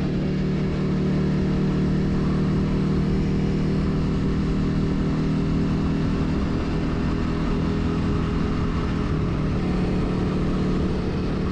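Motorcycle engine running steadily at cruising speed, with wind rushing over the helmet-mounted microphone.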